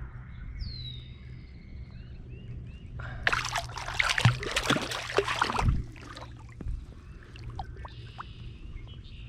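Water splashing and sloshing for about two and a half seconds, starting about three seconds in, as a hooked crappie is fought and landed at the surface. A bird chirps faintly before it.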